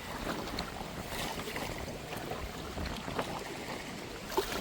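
Kayak paddle strokes in the water: light splashes and drips, with one louder splash near the end.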